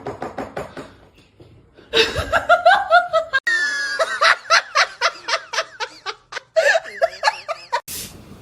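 Human laughter in quick, rhythmic bursts, with a short pause about a second and a half in and an abrupt break around three and a half seconds in.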